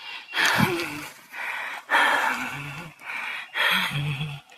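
An unseen animal in a hole hissing in three loud breathy bursts, about a second and a half apart, each with a low growl underneath.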